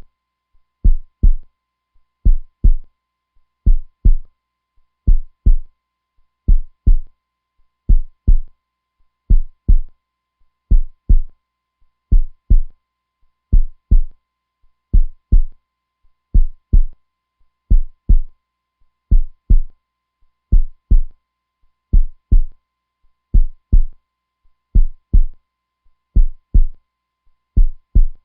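Heartbeat sound: deep, steady paired 'lub-dub' beats, one pair about every 1.4 seconds, a slow even rhythm.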